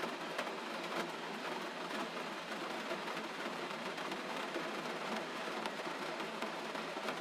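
Gentle rain: an even, steady hiss dotted with many small, irregular drop ticks.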